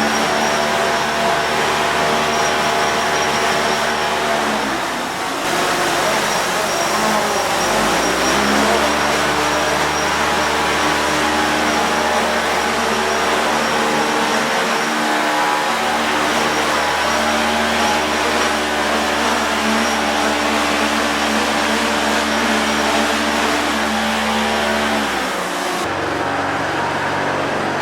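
A small gas engine, the kind that drives a blower, runs steadily with a strong pitched note. It throttles down about five seconds in and climbs back up a few seconds later, then eases off near the end. The propellers of a DJI Phantom 4 Pro quadcopter hover in the blast alongside it.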